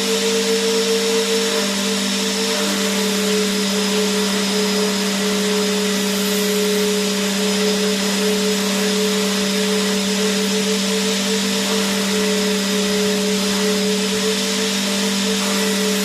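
Vacuum cleaner running continuously: a steady motor whine over an even rushing hiss of air, its pitch dipping slightly a couple of seconds in.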